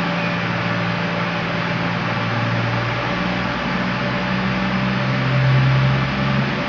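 Cross Country Class 221 Super Voyager diesel multiple unit pulling out, its underfloor diesel engines running hard, with the engine note rising in pitch about halfway through as the train accelerates away.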